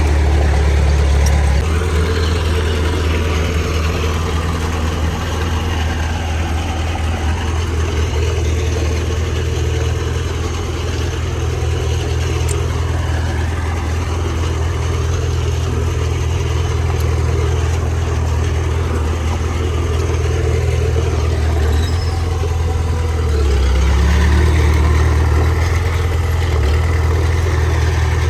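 Heavy diesel engine of earthmoving equipment running steadily with a deep drone. Its note shifts as the load changes, once about a second and a half in and again a few seconds before the end, where it grows a little louder.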